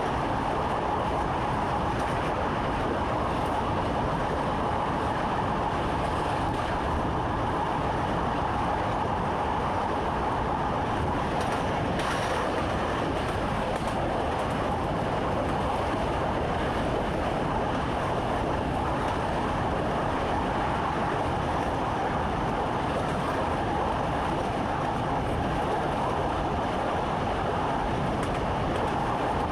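Electric train running steadily, heard from inside the driver's cab: an even rumble and rail noise with a faint steady hum and one faint click about twelve seconds in.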